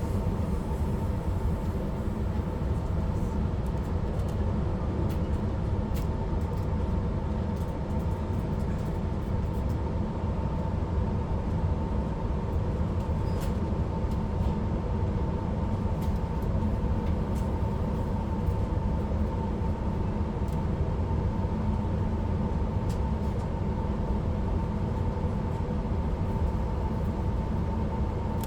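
Suburban electric train running at steady speed, heard from inside the carriage: an even rumble with a steady whine over it.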